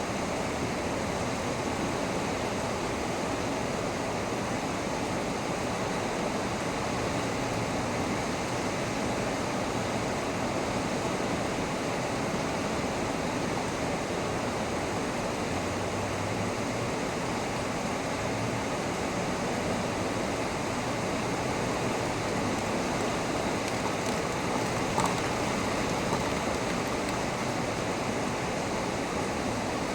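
Heavy rain falling steadily, a dense even hiss of downpour with no thunder, and one brief tap about five seconds before the end.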